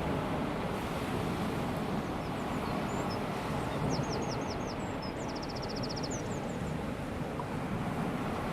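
Small waves of a calm sea washing steadily on the shore. From about two seconds in, a small bird chirps high above it: a run of short falling notes, then a quick trill.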